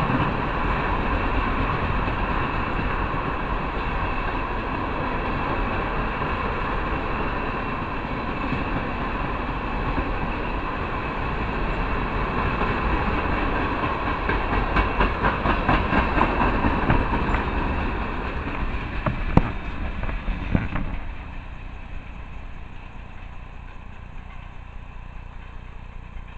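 Tank cars of a CSX ethanol train rolling past, with steady wheel-and-rail noise and runs of clicks as wheels cross rail joints. A couple of sharp knocks come near the end of the train. The sound drops off about 21 seconds in as the last cars pass, leaving a fainter steady hum.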